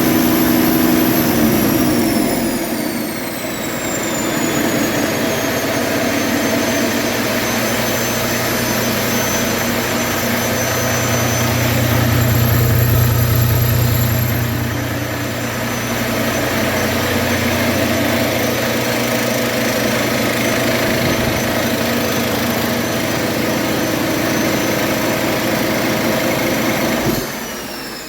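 2019 Volvo D13TC 13-litre inline-six turbo-compound diesel on a test run, its turbo whine falling in pitch as the engine comes down from a higher speed to a steady idle. Near the end the engine sound drops away and the whine winds down as it shuts off.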